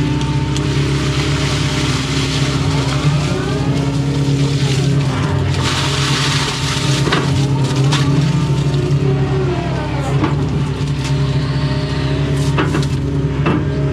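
Doosan excavator's diesel engine running steadily under load, heard from inside the cab, with the hydraulic whine rising and falling as the controls are worked and a few sharp knocks near the end.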